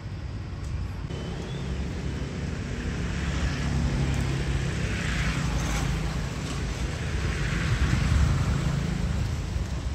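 A steady low engine rumble, as from a motor vehicle, with a hiss that swells and fades twice.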